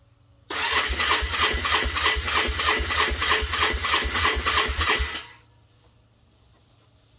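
Car engine cranked over by its starter motor on a cold start after a frosty night. It turns over in even beats, about four a second, for roughly five seconds without catching, then the starter stops.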